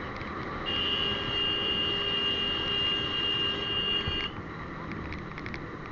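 A steady high-pitched beep held for about three and a half seconds, starting under a second in and cutting off suddenly, over a continuous noise bed.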